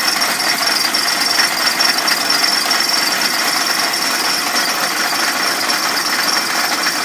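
Mercedes W115 300D's five-cylinder OM617 diesel engine idling steadily.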